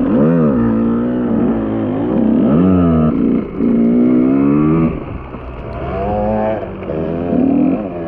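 KTM EXC 125 two-stroke enduro engine revving, its pitch rising and falling several times as the throttle is opened and closed.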